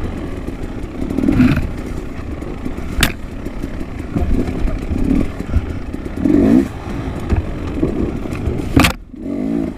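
Dirt bike engine revving in repeated bursts as it is ridden hard over rough ground, with steady clatter and scraping. A sharp knock comes about three seconds in, and a louder one near the end, followed by a brief dip.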